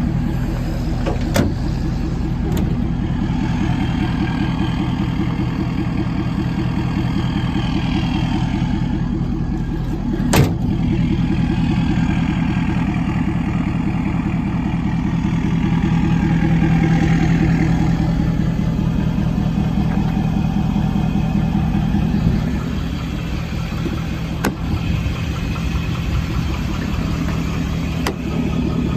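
Ford 6.7-litre Power Stroke turbo-diesel V8 running steadily, with a few sharp clicks over it, the loudest about ten seconds in.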